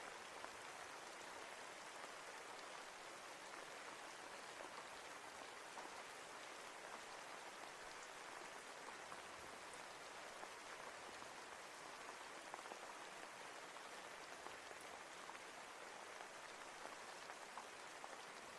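Soft, steady rain: an even hiss flecked with small drop ticks, unchanging throughout.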